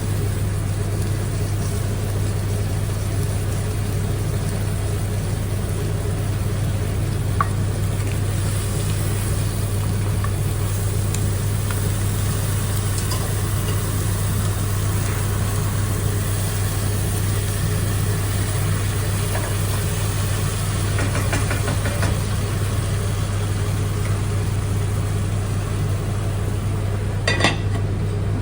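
A steady, even machine hum, like a motor or fan running, with a few light clicks, the sharpest near the end.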